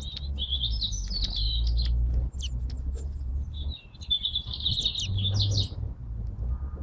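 Small songbirds twittering in two rapid, chattering phrases, the second starting a little past halfway, over a steady low rumble.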